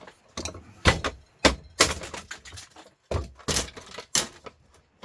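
About six hammer blows on a George Foreman grill's housing, in two quick groups, knocking it apart where its security screws can't be undone.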